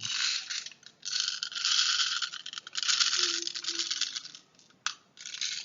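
Plastic airsoft BBs rattling in several bursts of about a second each as they go into the spring pistol's magazine with its follower spring pulled back, and one sharp click near the end.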